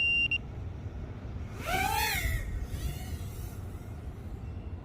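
A short electronic beep, then a brief whine that rises and falls in pitch, with a fainter repeat about a second later.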